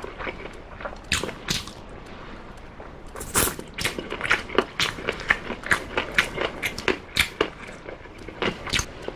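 Close-up chewing and biting of baked chicken drumstick meat, with many short wet smacks and clicks from the mouth, coming faster, about two to three a second, from a few seconds in.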